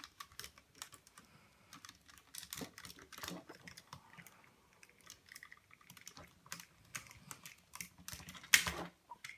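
Hard plastic parts of a Hasbro Optimus Prime Transformers figure clicking and rattling as they are handled and the gun is worked loose: a run of small irregular clicks, with one louder knock near the end.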